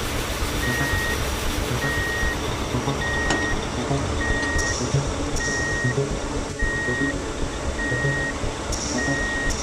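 Truck reversing alarm beeping steadily, a high beep about once a second, over a continuous rumbling motor noise.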